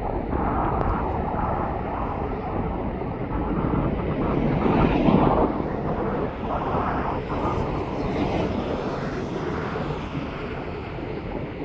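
Airliner engines passing the runway, building to loudest about five seconds in and then easing off, with gusty wind noise on the microphone.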